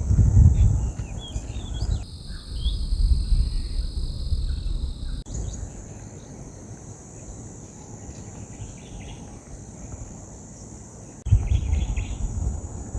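Insects keep up a steady high-pitched chirring, with scattered bird chirps over it. Gusts of wind rumble on the microphone. The mix changes abruptly about two, five and eleven seconds in.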